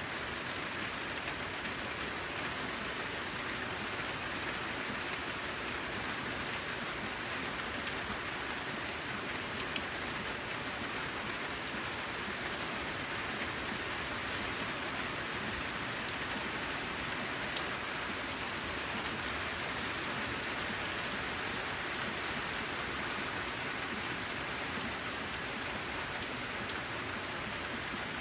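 Steady, even rain falling on a corrugated zinc roof, a dense patter of drops with a few sharper single ticks.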